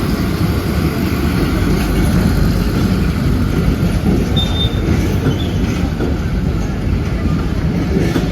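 Train running on the track: a steady heavy rumble of wheels and carriages on the rails.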